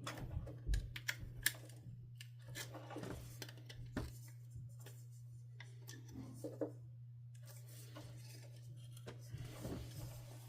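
Small plastic and metal parts being handled and worked loose: scattered light clicks, taps and rubbing, several sharp clicks in the first two seconds, over a steady low hum.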